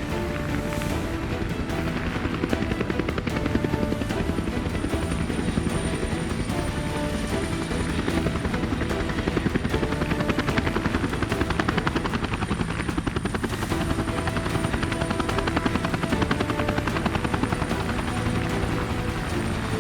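Helicopter rotor chop, a steady rapid beating, with background music of held notes underneath.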